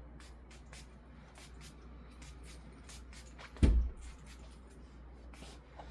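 Light clicks and taps of small objects being handled, with one loud, dull thump about three and a half seconds in.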